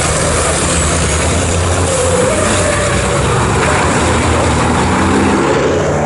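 Diesel engines of several racing trucks running hard at speed on the circuit, a steady loud mix of engine tones over road and wind noise.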